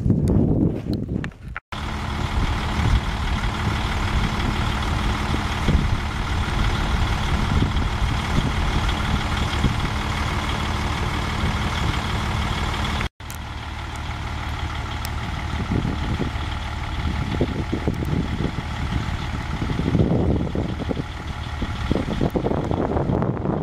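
A motor vehicle running with a steady droning hum. The sound drops out abruptly twice, about two seconds in and about thirteen seconds in.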